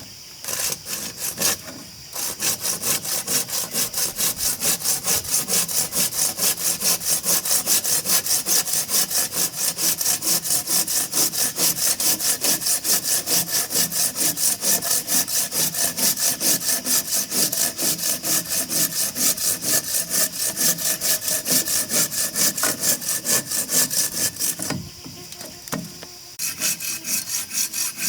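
Hand saw cutting through wood with quick, even back-and-forth strokes, about three a second. The sawing stops briefly near the end, then starts again.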